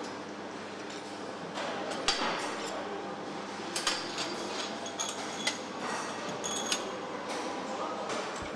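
Truck assembly-plant work noise: scattered metallic clinks, ticks and knocks of tools and parts over a steady background hum.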